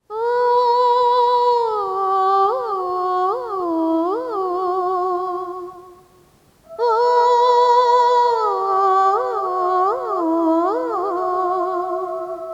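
Female voice humming a slow, ornamented film-song melody, with held notes and quick pitch turns. It comes in two phrases broken by a short pause about six seconds in; the second phrase runs over a steady held accompaniment note.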